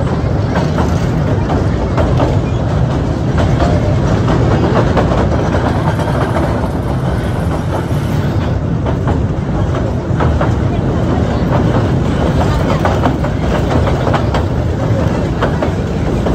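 Passenger train running steadily, its wheels clattering over the rails, heard loud and close from an open carriage door as it crosses a railway bridge.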